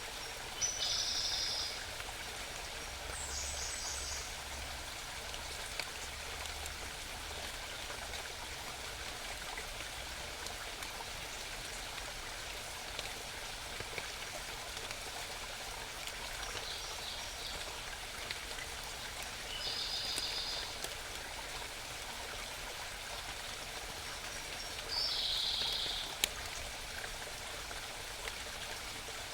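Small mountain stream babbling steadily, with a songbird singing short, high, rapid phrases several times over it.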